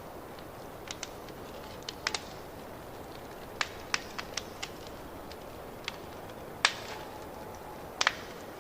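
Wood fire crackling in a fireplace: a steady low hiss under scattered sharp pops and snaps at irregular intervals, the loudest pops about two-thirds of the way through and near the end.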